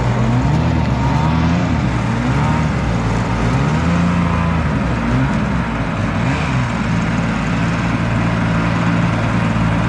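Jet boat engine running, its pitch rising and falling repeatedly as the throttle is opened and eased off.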